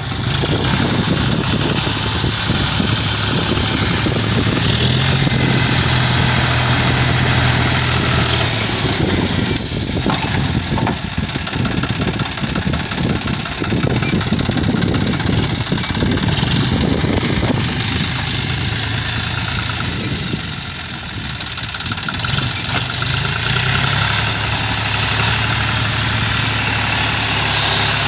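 John Deere 5045D tractor's diesel engine running continuously. A steady low hum firms up for a few seconds twice, once early and again near the end, with a brief lull a little after the middle.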